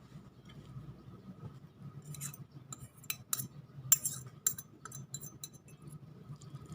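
Eating utensils clicking and clinking against dishes: a cluster of sharp clicks in the middle, the loudest about four seconds in, over a faint steady hum.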